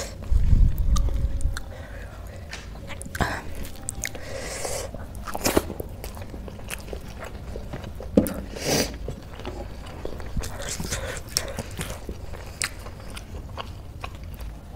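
Close-miked chewing and mouth smacking as a mouthful of rice and black-eyed pea curry is eaten by hand, with scattered wet clicks. A low thud comes in the first second.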